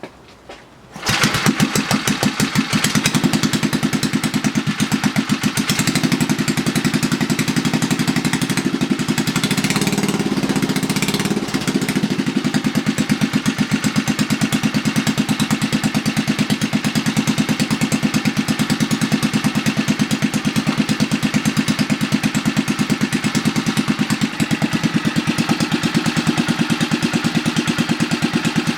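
A Briggs & Stratton 3 HP single-cylinder four-stroke engine with a homemade exhaust starts up about a second in and runs steadily with an even, rapid firing beat. It runs a little harder for a couple of seconds around ten seconds in, then settles back.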